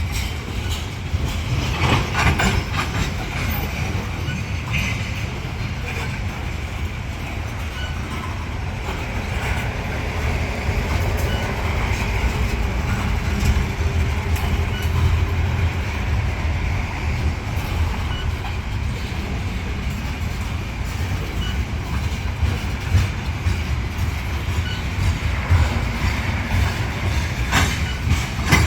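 Freight train cars rolling past at steady speed, with a continuous low rumble and the repeated clicks of wheels over the rail.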